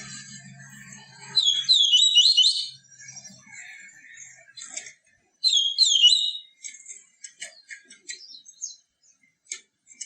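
Papa-capim seedeater singing: two loud bursts of quick, high, sliding whistled notes, a few seconds apart, then a run of short separate chips.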